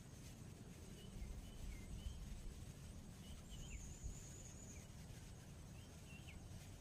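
Small birds giving scattered short chirps, with a thin, steady high buzz for about a second midway through, over a faint low rumble.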